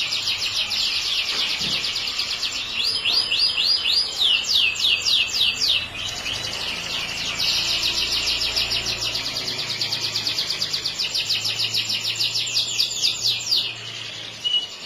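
Yellow canary singing a long song of fast, high trills, with a run of slower, separate falling notes a few seconds in and a brief lull about halfway.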